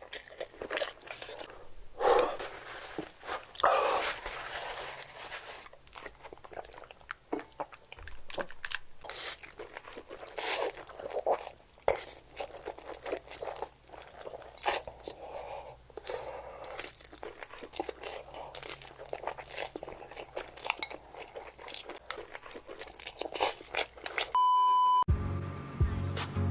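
Close-miked eating: a person chewing and biting food in irregular crunchy strokes. Near the end a short steady beep sounds for about half a second, then music begins.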